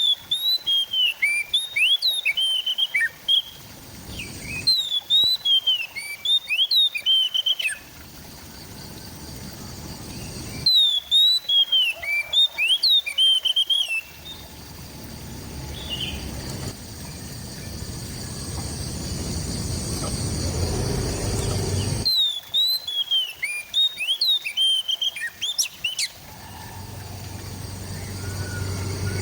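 Oriental magpie-robin (kacer) singing in four bouts of about three seconds each: quick runs of clear whistled notes that slide sharply up and down, with pauses of several seconds between bouts.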